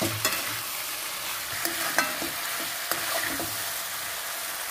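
Chilli potato sizzling in a steel kadai as a metal spoon stirs and tosses it, the spoon clinking against the pan a few times over a steady frying hiss.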